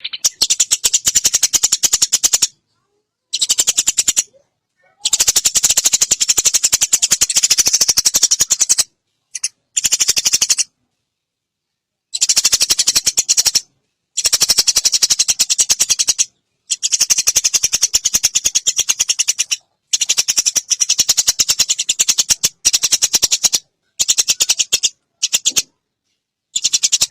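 Recorded songbird call: bursts of very fast, high, clicking rattles, about a dozen bursts of one to four seconds each, cut apart by abrupt silences.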